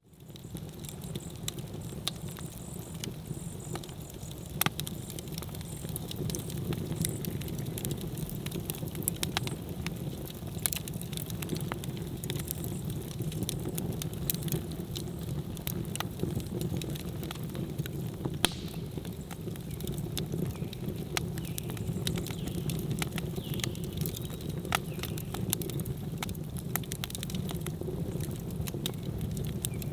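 Wood campfire burning: a steady low rush of flames with scattered crackles and pops. The loudest pops come about five seconds in and again about eighteen seconds in.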